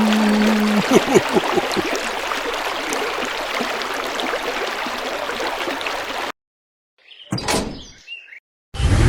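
Steady rushing, hissing noise with a few short falling tones in the first couple of seconds, cutting off abruptly about six seconds in. After a brief sound between stretches of dead silence, music starts near the end.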